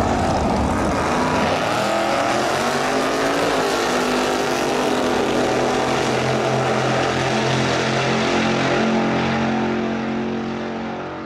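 A loud engine running, its pitch falling over the first couple of seconds and then holding steady, fading out near the end.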